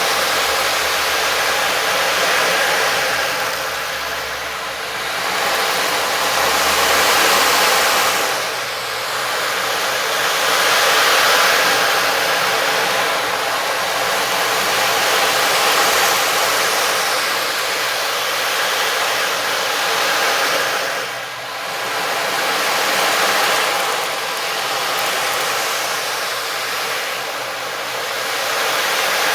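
A sound-bath instrument played as a continuous wash: a dense hiss that swells and eases every few seconds, with several steady ringing tones underneath.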